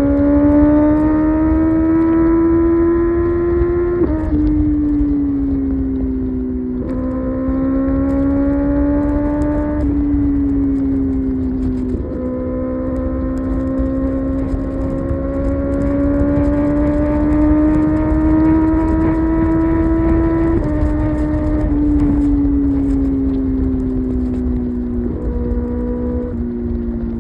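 Kawasaki ZX-6R inline-four engine pulling on the highway, its note climbing slowly as speed builds. Several gear changes: the pitch drops suddenly at upshifts, about four, ten and twenty-one seconds in, and jumps up at downshifts. A low rush of wind runs underneath.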